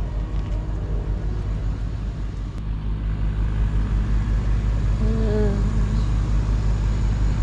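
Tractor engine idling steadily with an even pulsing beat, growing louder about two and a half seconds in.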